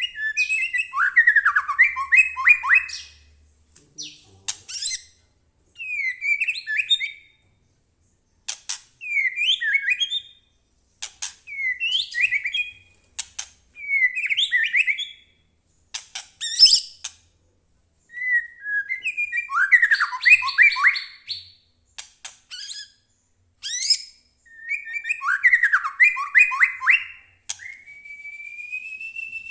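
White-rumped shama singing in short, varied bursts of rapid chattering and whistled notes, with brief pauses between phrases. Near the end comes one long, clear whistle that rises slightly and then falls.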